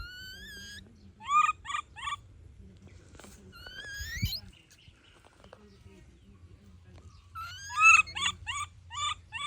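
Baby monkey crying: high-pitched rising calls, each followed by a quick run of short squeaks, once near the start and again more strongly near the end.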